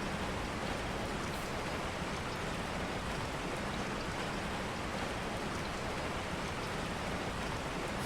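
Steady, even rain falling: a continuous rain ambience.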